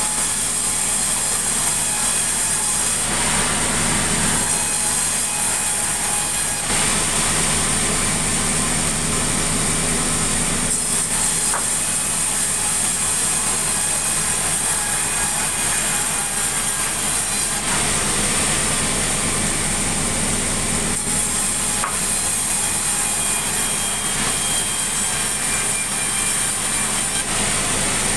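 Sawmill saw cutting sengon timber into lumber: a loud, continuous cutting noise with a steady high tone, changing in texture every few seconds as the wood is fed through the blade.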